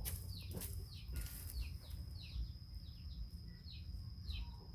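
Small bird chirping: short falling chirps repeated about twice a second, over a steady high-pitched tone and a low background rumble.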